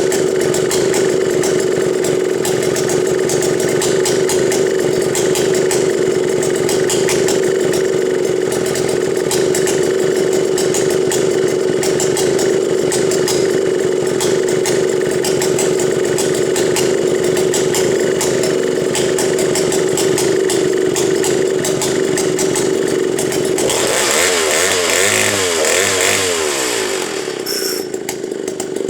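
Stihl 090G chainsaw's 106 cc two-stroke engine running steadily; near the end its pitch wavers and falls and it dies away as the saw is shut off.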